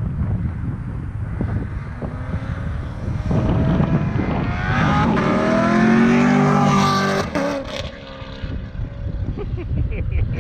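A modified sports car driving past under acceleration: the exhaust note builds from about three seconds in and is loudest around six seconds. Its pitch then falls away as the car passes.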